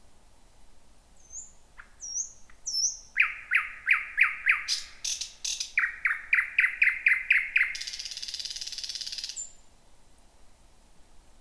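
Thrush nightingale singing one strophe. It opens with a few faint, high upslurred whistles, then moves into fast runs of repeated loud notes mixed with sharp clicks. It ends in a long buzzing rattle about eight seconds in.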